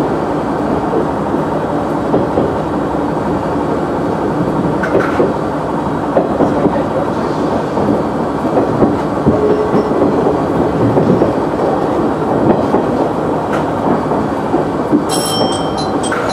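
KiHa 100 diesel railcar running along the line, heard from the cab: a steady rumble of engine and wheels on rail, with a few sharp clicks as the wheels pass rail joints and points.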